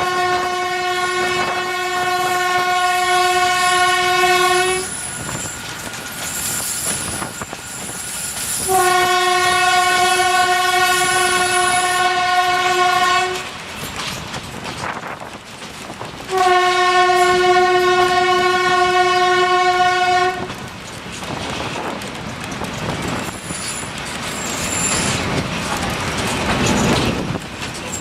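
Train horn sounding three long blasts of about four to five seconds each, on one steady note. Between and after the blasts the train runs with a rattling rumble.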